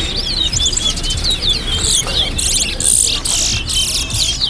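Towa-towa seed finches singing in a song race: quick, repeated high chirping notes that run on without a break. The singing becomes denser and brighter in the second half.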